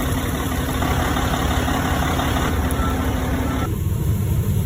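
Tractor engine running steadily, a heavy low rumble under a hiss; the hiss eases off near the end while the rumble carries on.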